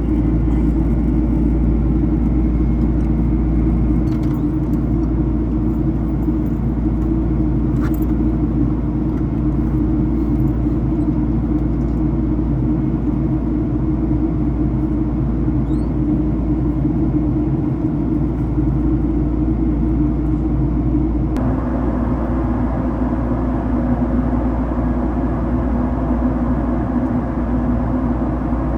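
Jet airliner engines and airflow heard inside the passenger cabin as a steady low drone. About three quarters of the way through, the noise steps up into a louder hiss and stays there.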